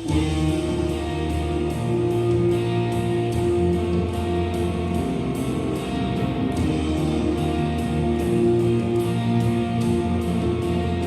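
Worship band playing an instrumental song intro led by guitar, over a steady beat.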